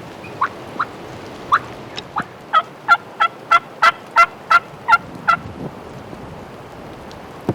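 Wild turkey yelping: a few scattered notes, then an even run of about ten yelps at roughly three a second, ending about five and a half seconds in.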